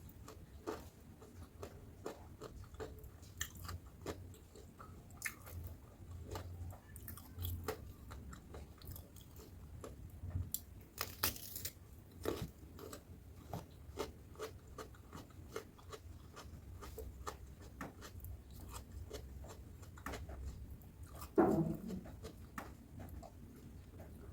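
Close-up chewing and biting of crispy batter-fried tempeh, a steady run of crisp crunches and mouth clicks. Near the end comes a brief falling 'hmm' from the eater.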